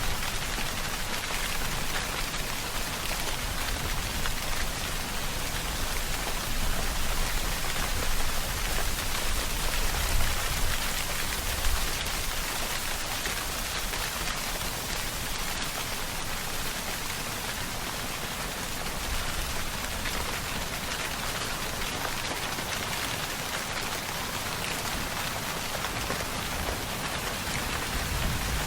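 Steady rainfall, an even hiss of many drops falling on surfaces, with the low end swelling slightly for a few seconds partway through.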